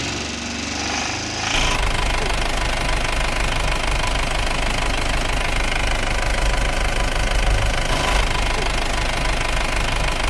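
Vehicle engine sound effect running with a rapid, even low knocking beat. It gets louder and fuller about one and a half seconds in, then holds steady.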